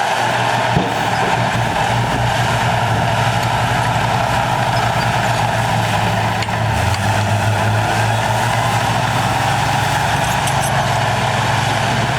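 Heavy earthmoving machine's diesel engine running steadily, a low hum that drops slightly in pitch about seven seconds in.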